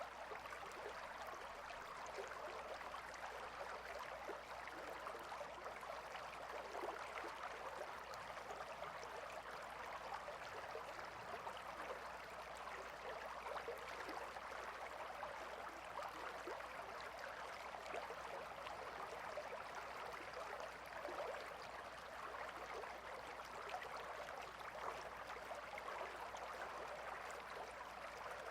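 A gentle river flowing steadily, its water burbling.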